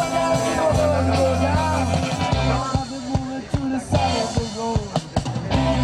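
Live rock band playing: regular drum hits over a steady bass line, with a sliding melody on top.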